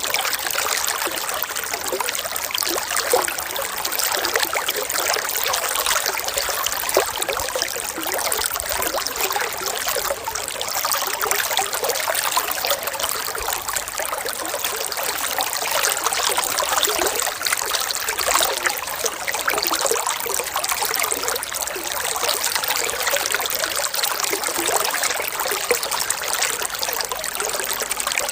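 Running water trickling steadily, a dense patter of small splashes without pause, as of a small stream.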